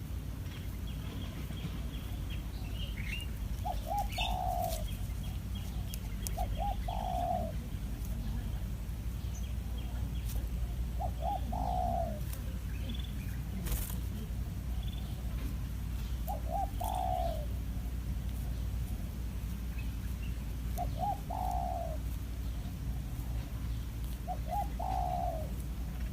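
A bird cooing, a short stuttered phrase of two or three quick notes ending in a longer slurred note, repeated six times about every four to five seconds. Faint higher chirps from small birds sound in the first few seconds.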